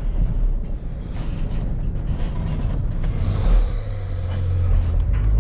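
Van engine and road noise heard from inside the cab while driving, with the engine note growing stronger about three seconds in.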